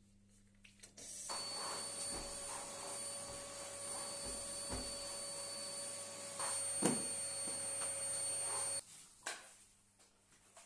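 Water running steadily from a tap, a hissing rush with a faint whine in it, shut off suddenly after about seven seconds.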